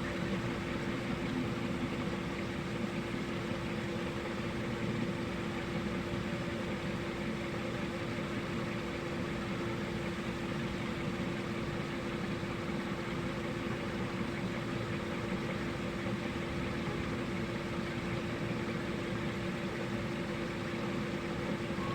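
A steady mechanical hum with one constant mid-pitched tone over an even background hiss, unchanging throughout.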